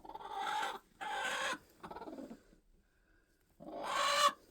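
A hen clucking in four harsh calls, the last one the loudest. She is complaining at being disturbed on her nest while her egg is taken.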